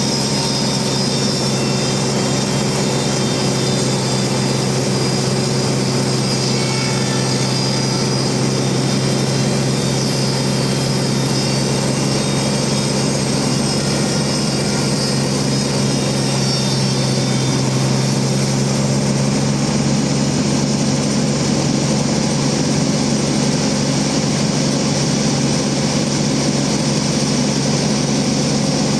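Band saw mill running with a loud, steady machine drone that holds the same pitch throughout.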